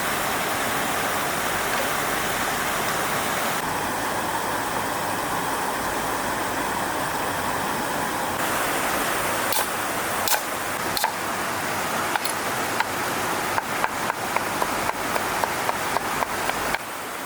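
Steady rush of a flowing stream. From about halfway in, a run of sharp clicks or taps sounds over it, coming faster, at two or three a second, near the end.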